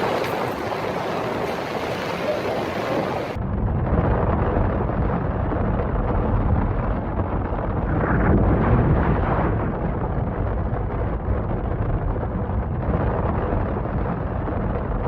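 Violent storm noise: a loud rushing roar, then, after an abrupt change about three seconds in, heavy wind buffeting the microphone with a deep rumble.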